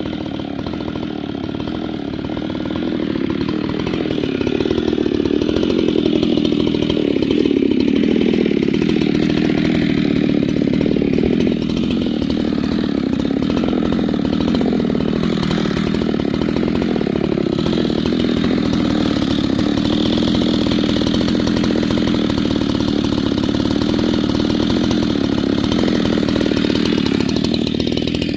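Husqvarna 390XP 88 cc two-stroke chainsaw running hard and continuously, its engine note sagging a few seconds in and then holding steady, as when cutting through wood. It has a replacement carburetor and an 8-pin drive sprocket, and the owner says it now runs the way it should.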